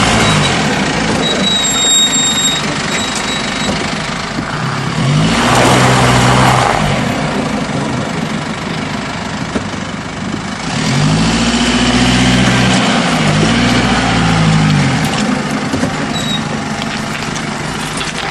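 Car engine running at low speed, revving up and dropping back four times while the car is manoeuvred over rough ground.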